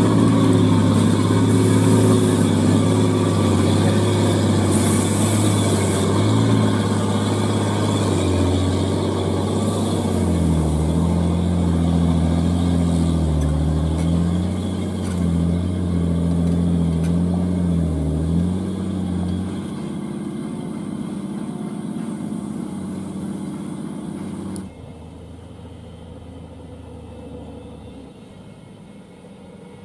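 Old Hino truck's diesel engine running hard, its pitch wavering up and down, then dying away after about twenty seconds, with a sudden drop in level near the end.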